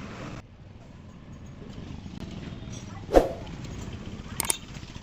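Steady background traffic noise, with one sharp knock about three seconds in and two quick clicks a second later, from hand tools on the motorcycle engine during cylinder-head removal.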